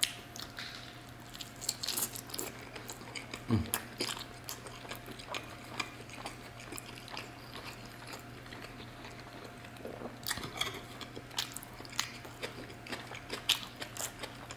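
Close-miked chewing of a mouthful of roast chicken: many soft, wet mouth clicks and smacks at an uneven pace.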